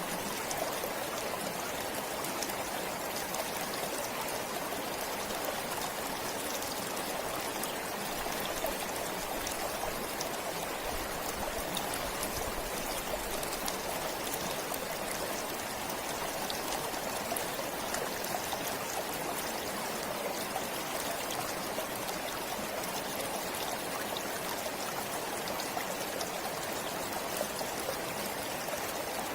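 A forest stream flowing steadily, its water splashing and trickling over stones in an even, unbroken rush.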